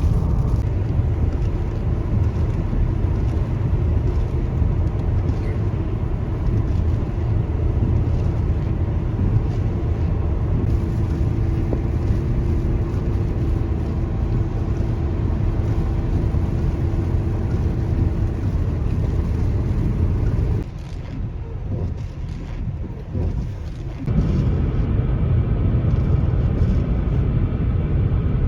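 Steady road and engine noise of a car driving, heard as a low rumble. It drops quieter for about three seconds near the end, then picks up again.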